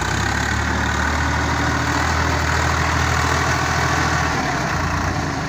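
Heavy diesel engine running steadily and loudly, its note easing off about four seconds in.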